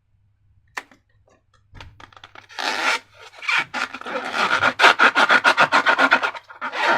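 A few scattered clicks, then quick repeated rubbing and scraping strokes, several a second, for about three seconds.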